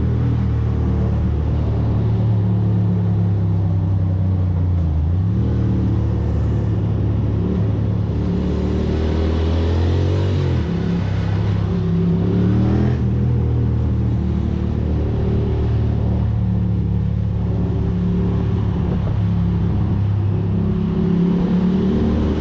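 Ducati Monster's V-twin engine running under way and accelerating through the gears, its pitch climbing twice around the middle, with wind and road noise.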